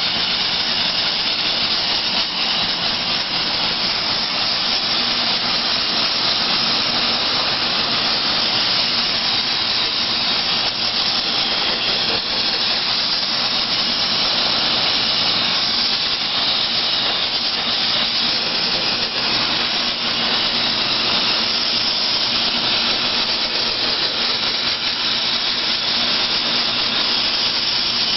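Baking soda blaster spraying a steady, loud hiss of compressed air and soda from its nozzle.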